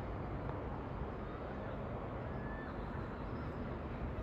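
Steady railway station platform ambience: an even low rumble and hum, with a brief faint chirp about two seconds in.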